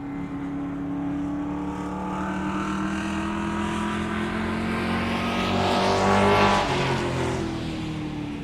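A motor vehicle passing by. Its engine drone builds to its loudest about six seconds in, then drops in pitch and fades as it moves away.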